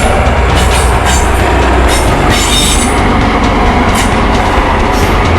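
Model train running along the layout track: a continuous wheel rumble on the rails with short high-pitched squeals and clicks at intervals.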